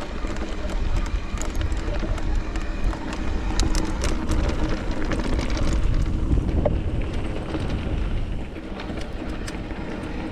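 Wind blowing hard across the microphone as a mountain bike rolls over rocky trail, with scattered sharp clicks and rattles, thickest about four seconds in.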